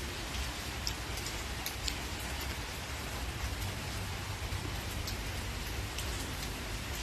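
Steady rain: an even hiss with scattered sharp drop ticks and a low rumble underneath.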